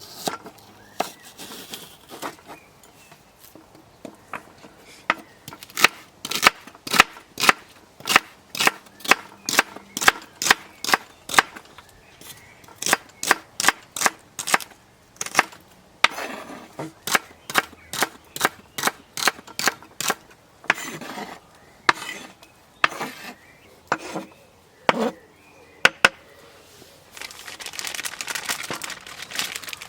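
Knife chopping food on a cutting board: quick, regular cuts about two to three a second, then slower scattered cuts. Near the end a crinkling rustle starts.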